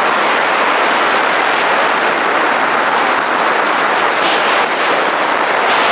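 Steady, loud rushing noise of a car driving on the road: even wind and road noise with no engine note standing out.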